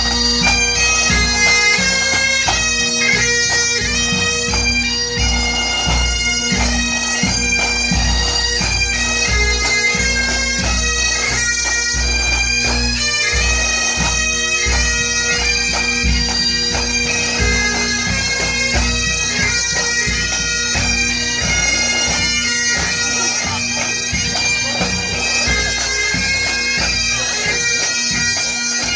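Highland bagpipes playing a tune, the melody notes moving quickly over steady, unbroken drones.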